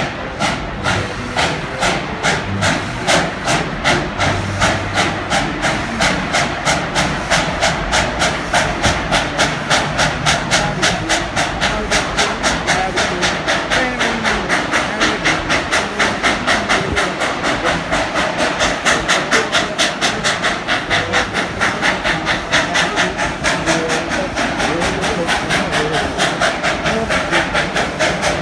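Narrow-gauge steam locomotive working steadily, its exhaust chuffing in a regular rhythm of about four beats a second with a constant hiss of steam.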